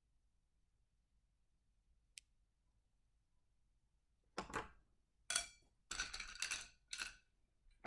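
Near silence, then from about halfway a few seconds of clicking and rattling, as of small hard objects being handled and knocking together, in about five short clusters.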